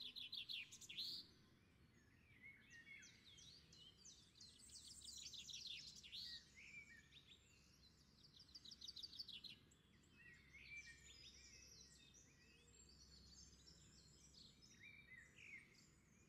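Faint birdsong: several birds chirping and trilling in short bunches, with quiet stretches between them.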